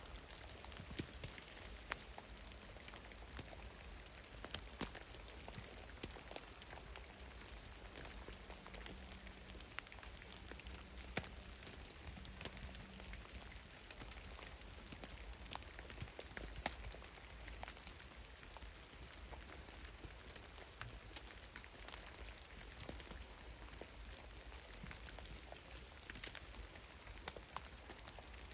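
Meltwater drops falling from melting snow in a forest, pattering irregularly on snow and branches: many small scattered ticks, some louder than others, over a faint steady hiss.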